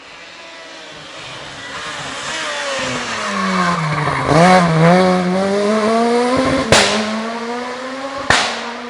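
A rally car's engine approaching loudly, its pitch dropping as it slows with a couple of quick dips, then rising again as it accelerates away. Two sharp cracks come about two-thirds of the way in and again near the end.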